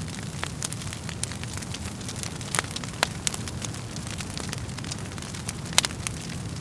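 Burning firewood in a fireplace crackling and popping irregularly over a steady low rumble of flames, with a few louder pops.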